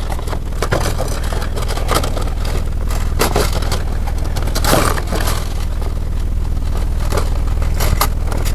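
Light clicks and scrapes of steel piston rings being worked onto a piston by hand, scattered and irregular, over a steady low hum.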